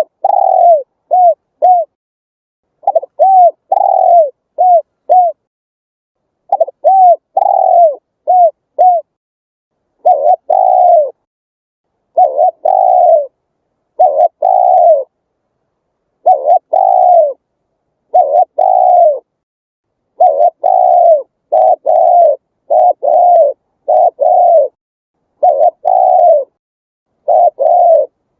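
Spotted dove cooing over and over in short phrases. Each phrase is a run of two to five brief coos that rise and fall in pitch, with short silent gaps between phrases.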